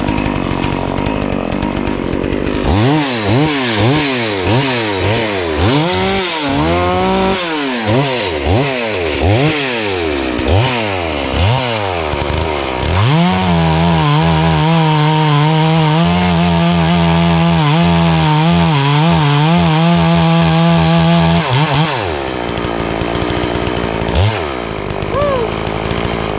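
FarmMac F380W 72cc two-stroke chainsaw blipped repeatedly, its engine pitch rising and falling a little over once a second. It is then held at a steady high speed for about eight seconds before dropping back near the end.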